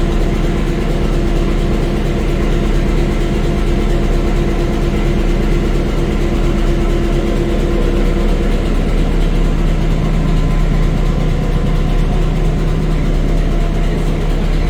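Diesel engine of the locomotive P20 idling steadily. A pitched hum in the sound drops to a lower one a little over halfway through.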